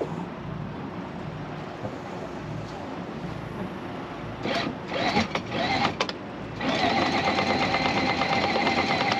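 A boat's engine running steadily at idle. About two-thirds of the way in, an electric anchor windlass starts up with a steady motor whine and a fast, even clatter as the anchor chain is hauled in.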